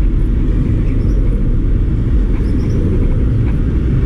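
Low, steady rumble of road traffic, with faint short high chirps repeating every second or so.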